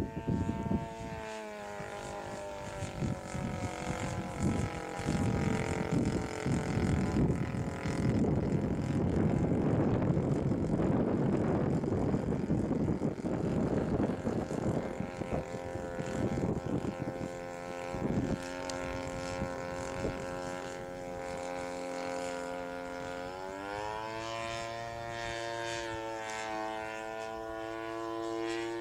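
Chainsaw-type two-stroke engine driving a propeller on a homemade aircraft, running at a steady pitch and then revving up sharply about three-quarters of the way through. For the first half or more it is partly buried under gusty rushing noise.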